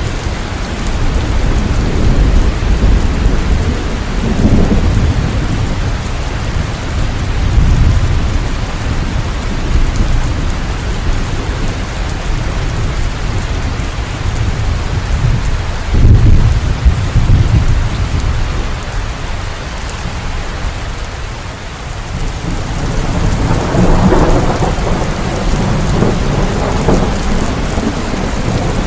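Steady rain with low rolling thunder that swells and fades several times. The loudest rumble comes about sixteen seconds in.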